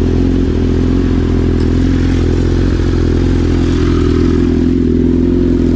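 Motorcycle engine idling steadily while stopped.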